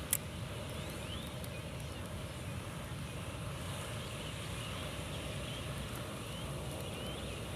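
Wind buffeting the microphone in a steady low rumble, with one sharp click just after the start and a few faint, short rising chirps.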